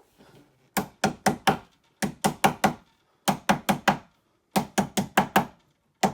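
Hammer knocking panel pins into a new wardrobe back panel, in quick runs of four or five blows with short pauses between. Each blow rings with a hollow, pitched note.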